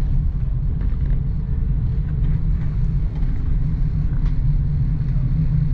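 Steady low rumble inside a passenger train carriage as the train runs along the track, with a few faint ticks.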